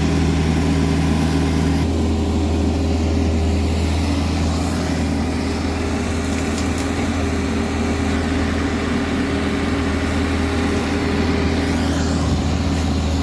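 Diesel engine of a hydraulic excavator running steadily at working revs, with a small change in its tone about two seconds in.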